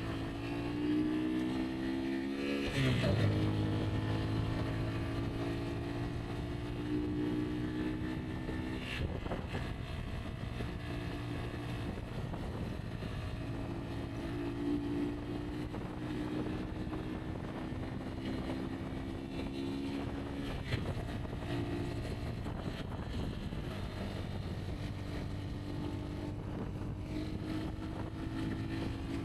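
Rieju Aventura 125's single-cylinder engine running under way on a dirt track, its pitch shifting with the throttle. The revs climb and then drop sharply about three seconds in, like a gear change. There are a few short knocks along the way.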